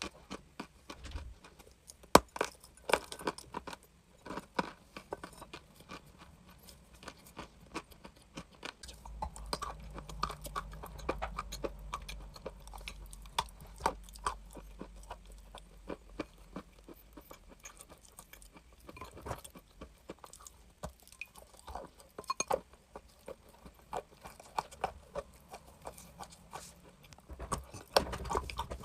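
Crunchy chalk being bitten and chewed close to the microphone: a run of irregular sharp crunches and crackles, loudest about two seconds in and near the end.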